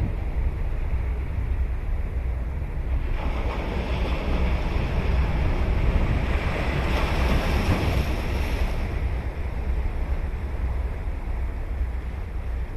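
Ocean surf on a sandy beach: a wave's hiss builds about a quarter of the way in, swells, then dies away about two thirds through. A steady low rumble of wind on the microphone sits under it.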